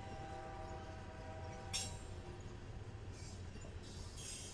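Freight train passing behind BNSF diesel locomotives: a steady low engine rumble with a faint whine of several held tones in the first half. A single sharp metallic clink about two seconds in, and short bursts of hiss near the end.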